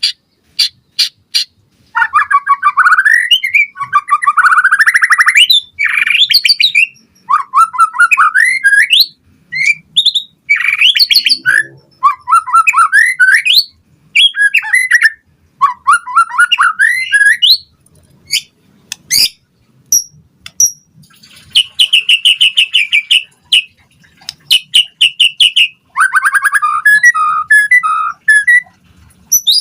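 White-rumped shama singing a loud, varied song. It comes in phrases a second or two long, made of fast rising and falling whistles, trills and chattering notes, with short pauses between them and a few sharp clicks at the start.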